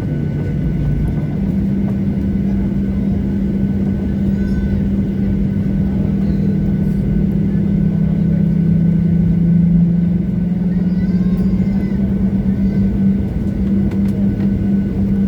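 Twin jet engines of a Boeing 737-800 droning loudly inside the passenger cabin, a steady rumble with a hum that steps up in pitch about a second and a half in.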